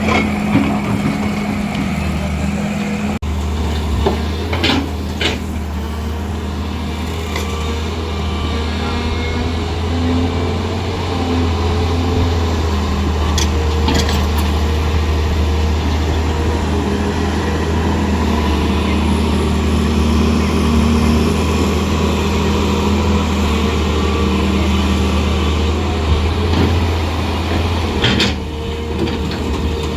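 Heavy diesel engine of construction machinery running steadily at a constant pitch, with a few brief sharp knocks over it.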